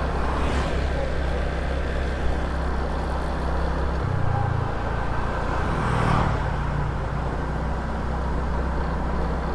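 Small motor scooter running at around town speed, heard from on board: a steady engine drone over road and wind noise, with the engine note shifting about four seconds in and again about two seconds later.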